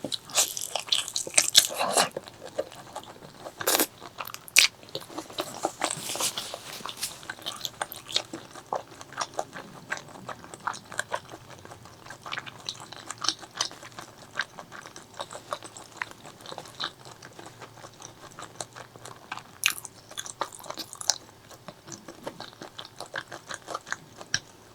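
Close-miked eating: wet chewing and lip smacking with sharp clicky bites, busiest and loudest in the first few seconds, then a steady run of smaller smacks.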